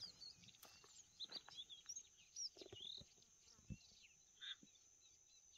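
Faint, scattered short chirping bird calls over near-silent evening quiet, with a steady high thin whine behind them.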